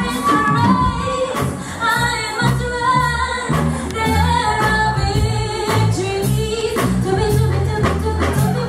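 A live contemporary gospel band performing: group vocals singing over bass and drums with a steady beat.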